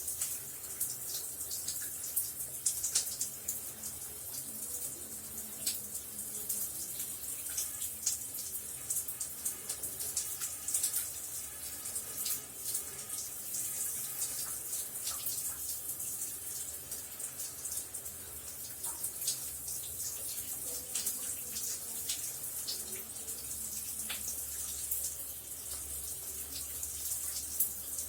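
Shower running steadily: a constant high hiss of water spray with many small splashes and drips scattered through it.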